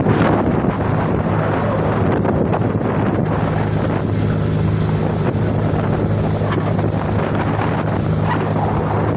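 A boat's engine running steadily with a low, even hum, under wind buffeting the microphone.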